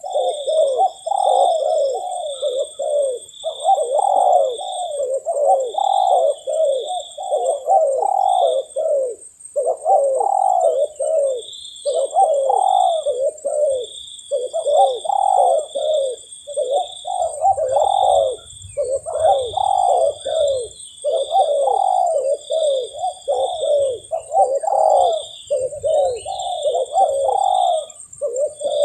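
Spotted dove (tekukur) cooing over and over in quick succession, phrase after phrase with only brief gaps. A steady high-pitched whine and a run of short, high chirping notes sound alongside.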